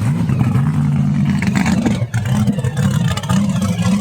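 A loud vehicle engine revving, its pitch rising and falling repeatedly.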